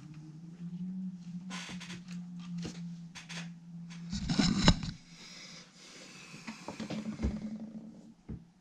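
Workbench handling noises: small clicks and scrapes over a low steady hum, with a louder clatter about four seconds in.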